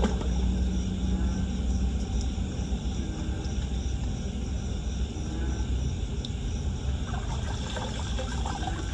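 Steady low rumble, with splashing, trickling water coming in near the end.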